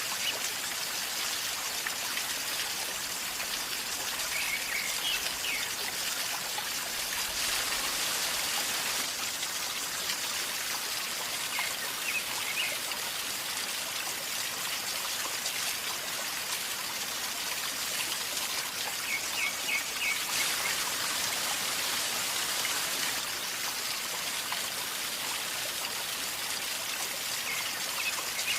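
River water flowing and gurgling in a steady rush, with a few short high chirps now and then.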